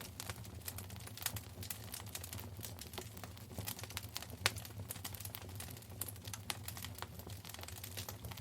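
Wood fire burning in a fireplace, crackling with many small irregular pops, one sharper pop about four and a half seconds in, over a steady low hum.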